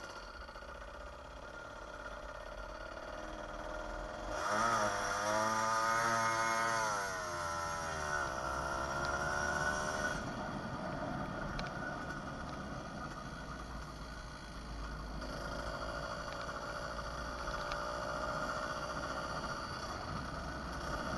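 A 66cc two-stroke motorized bicycle engine running under way. About four seconds in it revs up, its pitch rising and then falling back over a few seconds before it settles to a steady drone.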